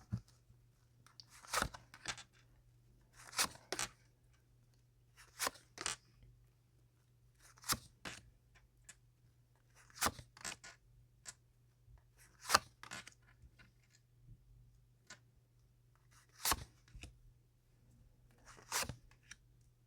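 Tarot cards being handled and laid out: short crisp rustles and snaps of card stock every two seconds or so, with a faint steady hum beneath.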